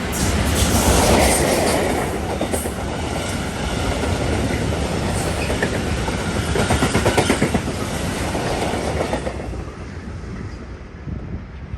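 Train passing through the station, its wheels clattering rhythmically over rail joints and points. The noise fades after about nine and a half seconds.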